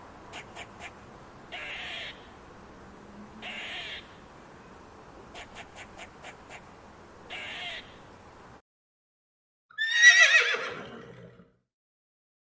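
A bird gives harsh caws with quick runs of clicking calls between them. This is followed by a single loud horse whinny that falls steeply in pitch with a quavering shake.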